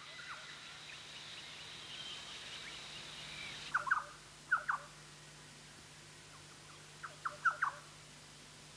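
Rainforest birds calling in short, sharp, falling notes, in a cluster about four seconds in and another near the end, over a steady high tone that stops just before the first cluster.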